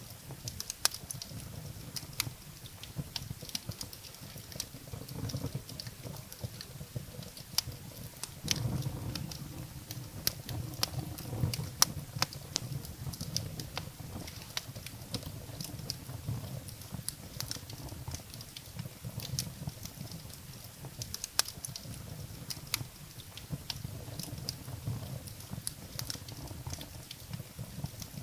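Wood fire burning in a fireplace: a steady low rumble of the flames with frequent sharp, irregular crackles and pops of the burning firewood.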